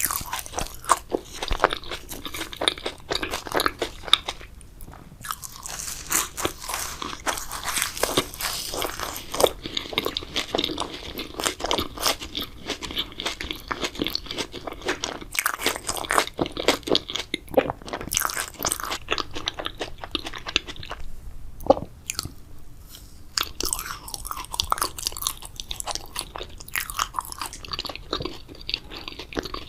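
Close-miked ASMR mouth sounds of a person biting and chewing a grape jelly dessert: a dense, irregular run of wet clicks and smacks, with two brief pauses.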